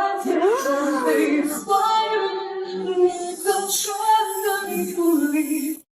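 A woman's voice singing a melody with long held notes, sliding up in pitch about half a second in; the singing cuts off suddenly near the end.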